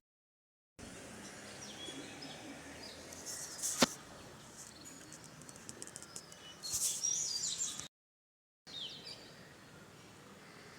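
Small birds chirping in short high bursts over a faint outdoor background, with a single sharp click just before the middle. The sound cuts out completely twice, briefly.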